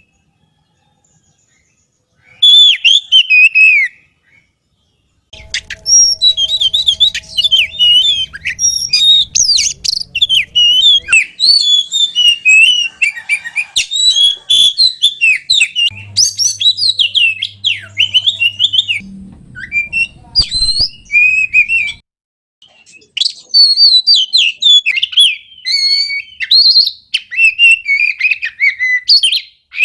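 Oriental magpie-robin (kacer) singing: fast, varied whistled phrases and chirps. The song comes in several stretches broken by short silences, the longest run in the middle.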